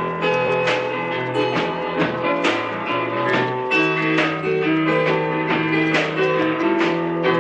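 Live instrumental break between sung verses of a slow country ballad: strummed guitar over held bass notes.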